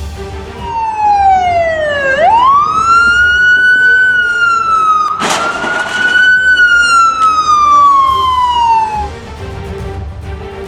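Emergency vehicle siren wailing: the pitch falls, sweeps sharply up about two seconds in, holds high, then slowly winds down. A brief rushing burst of noise cuts across it about halfway through.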